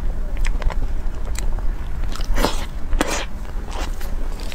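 Close-miked chewing of a crunchy pastry: sharp, crackling crunches scattered through, with two longer rushing hisses about two and a half and three seconds in.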